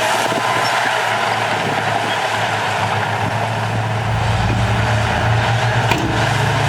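Diesel engine of heavy earthmoving machinery running steadily, its low note growing stronger about four seconds in.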